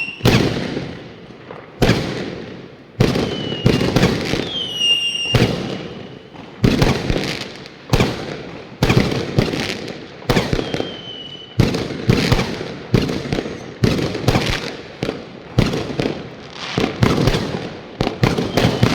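New Year's Eve fireworks going off in quick succession, sharp bangs about once or twice a second with echoing tails. A few whistling shells sound among them, each whistle falling in pitch.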